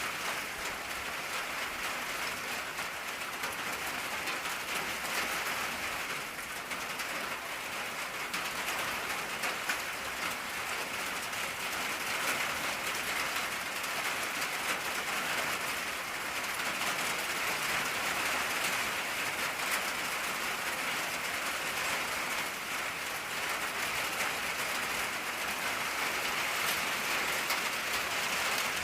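Steady rain falling on an old tin roof: a dense, even hiss of many small drop strikes on the metal.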